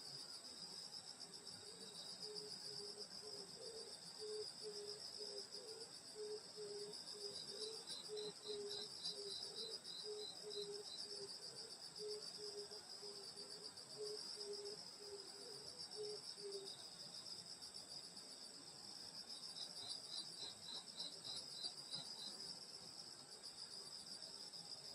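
Chorus of grass insects such as crickets, a steady faint high shrilling with a fast pulse. Two short trilling phrases come in along with it. A lower call of about two beats a second runs through the first two-thirds and then stops.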